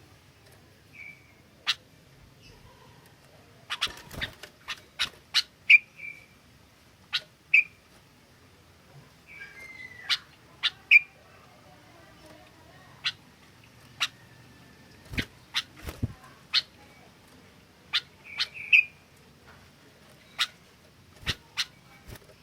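Sooty-headed bulbul calling: irregular sharp, short chips mixed with brief whistled notes, one of them falling in pitch about ten seconds in.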